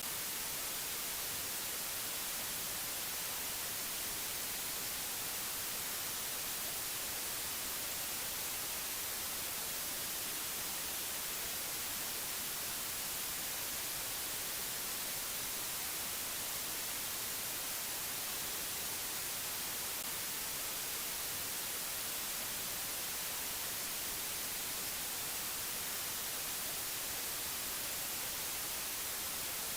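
Steady hiss of white noise, even and unchanging, strongest in the high treble.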